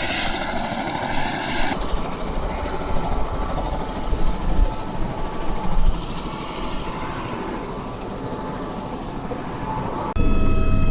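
Wind buffeting the microphone with a gusty low rumble. About ten seconds in it cuts abruptly to a steady mechanical whine of several tones over a low hum.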